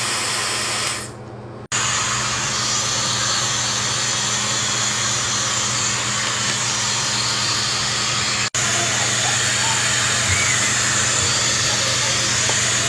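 Handheld hair dryer blowing steadily, a loud even rush of air over a low motor hum. The airflow drops out for about half a second about a second in and cuts off for an instant a little past the middle.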